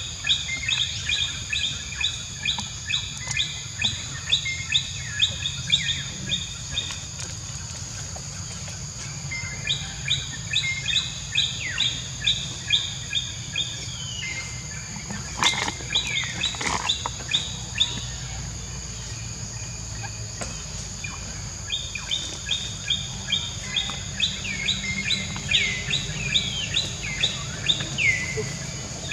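A bird chirping in long runs of quick repeated high notes, three runs in all, the last ending in a few falling notes. A steady high hum runs underneath.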